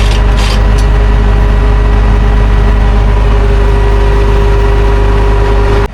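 Large diesel engine of farm machinery running steadily, a constant low rumble with a steady whine over it.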